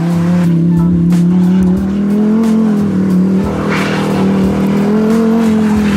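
Lamborghini Huracan Performante's V10 engine running at fairly steady revs, its pitch sagging and rising slightly, with a hissing rush a little past the middle.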